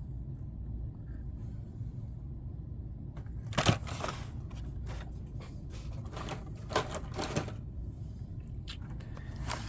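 Carded Hot Wheels cars and their cardboard case being handled: a few sharp plastic and cardboard clicks and crackles, the loudest about three and a half seconds in, over a low steady hum.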